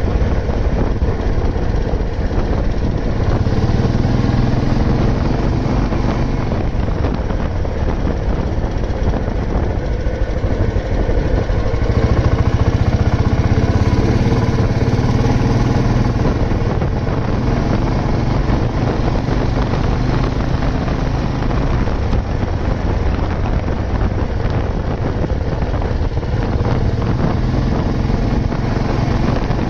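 Old Royal Enfield Bullet 350's single-cylinder four-stroke engine running steadily while riding, getting a little louder about twelve seconds in.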